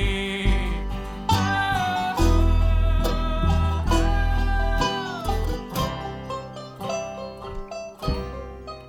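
Live bluegrass band playing an instrumental passage, with plucked acoustic guitar and banjo over a bass line and one held note sliding down near the middle, growing quieter toward the end.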